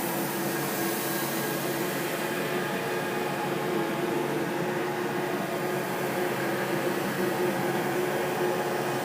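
Steady droning hum over an even hiss, with no breaks or sudden events: an eerie ambient drone sound effect.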